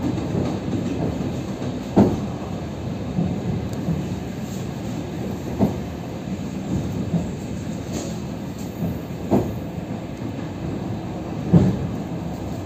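Suburban commuter train running along the track, heard from inside the carriage: a steady rumble of wheels on rail, broken by five sharp knocks from the wheels at uneven intervals.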